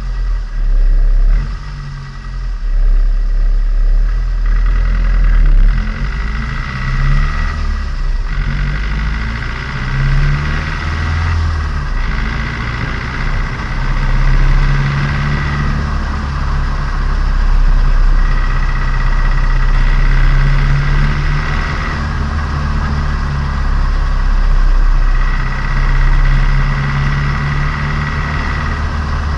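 Turbocharged Nissan Micra engine running during its break-in, heard from inside the car, with a low rumble and an engine note that rises and falls gently. A high steady whine comes and goes four times.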